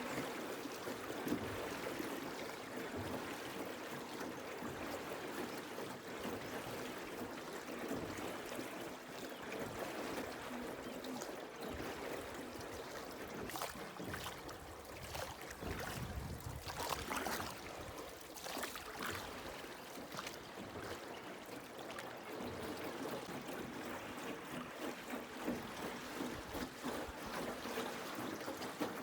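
Water trickling and lapping around a small rowboat as it is rowed along, with oar drips and splashes. A few brief knocks come about halfway through.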